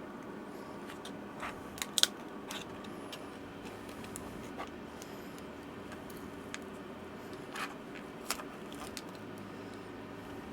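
Scattered light clicks and taps of small tools working against an opened laptop during battery removal, the sharpest about two seconds in, over a steady low hum.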